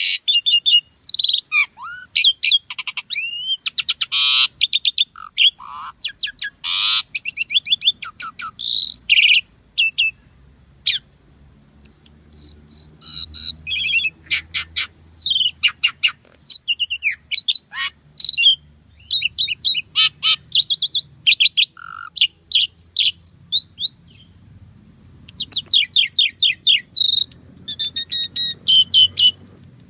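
Asian pied starling singing in full voice: a long, varied song of rapid chattering clicks, slurred whistles and harsh notes, broken by a couple of short pauses.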